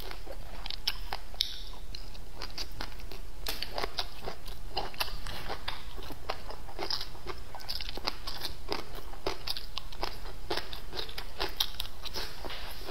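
A person chewing a mouthful of pan-fried fish with rice and green peppers: a steady run of short, crisp crunches and wet mouth clicks.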